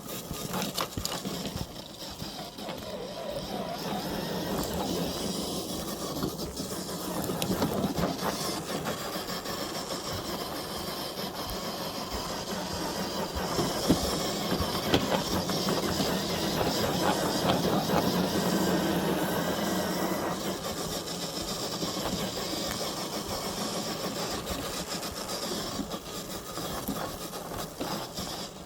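Electric motor and gearbox of an FMS FJ40 scale RC crawler whirring, swelling and easing as it drives. A couple of sharp knocks come about halfway through.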